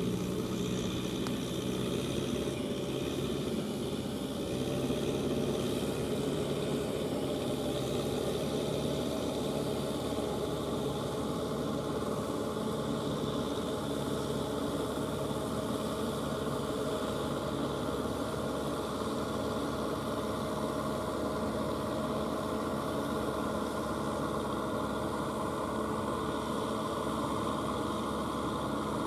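Kubota M6040SU tractor's diesel engine running steadily under load, rotary-tilling a wet, muddy paddy field.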